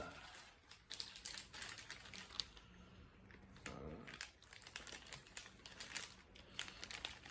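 Faint crinkling and rustling of packaging being handled, with many small scattered clicks.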